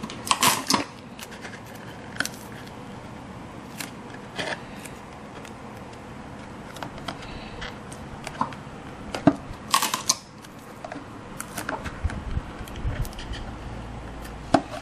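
Hand-crafting sounds of laying deck pieces on a model ship: scattered small clicks and taps, with two louder brief rustling scrapes, one about half a second in and one near ten seconds.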